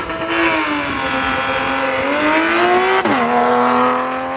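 Porsche Boxster's engine accelerating hard past the camera: the pitch sags, then climbs, and about three seconds in it drops sharply with an upshift before pulling up again.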